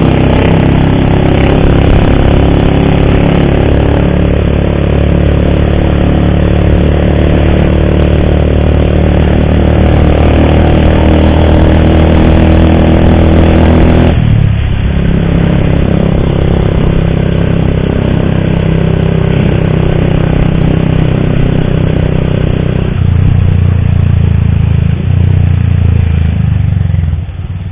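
Motorcycle engine running while riding, with a clattering noise that the rider blames on the cam chain. The engine note changes about halfway through and again near the end.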